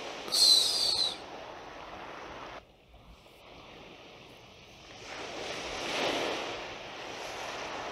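Ocean surf washing in and out, with a wave swelling about five seconds in, peaking near six and easing off.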